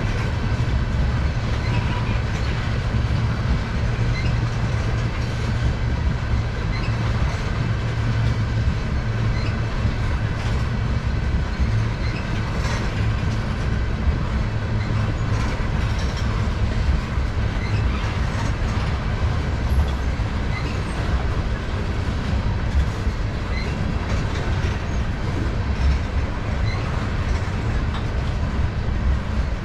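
Freight train of tank cars rolling past on steel wheels, a steady low rumble of wheels on rail with scattered light clicks.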